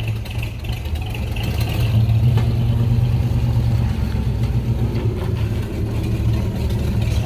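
Classic car's engine running close by with a low, steady exhaust rumble that grows louder about two seconds in.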